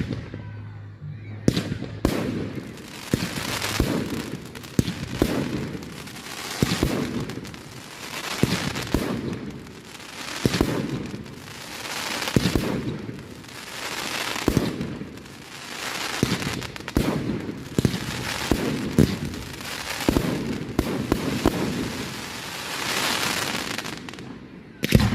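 Firework display: a fast series of bangs, roughly one a second, each followed by a crackling hiss as the bursts fall away, with a last sharp bang right at the end.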